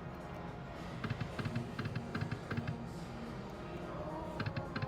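Poker machine sounds: short bursts of rapid electronic clicks, about four bursts, over a bed of machine tones and casino hum.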